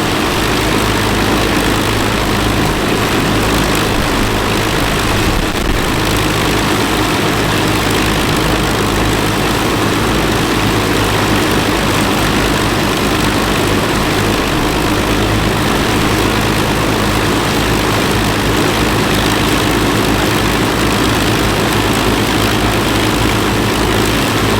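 Avro Lancaster bomber's Merlin V12 piston engines and propellers running steadily at idle after start-up.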